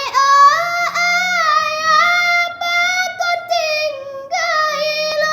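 A single high voice singing unaccompanied, holding long notes with ornamented turns and slides in pitch, with short breaks for breath.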